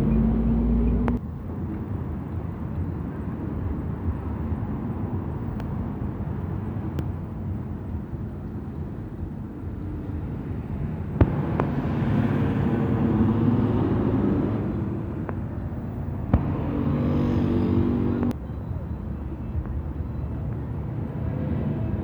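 City buses and traffic running along a busy avenue. A loud low rumble stops about a second in, and bus engines grow louder twice as buses pass, with a couple of sharp clicks.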